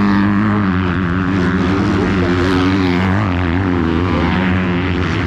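Motocross bike engines running hard, their pitch wavering up and down as the throttle is worked.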